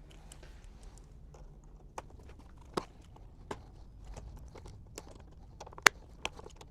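Scattered sharp plastic clicks and small knocks as the engine's fuel line quick-connect fittings are unclipped by hand, the loudest click a little before the end, over a low steady hum.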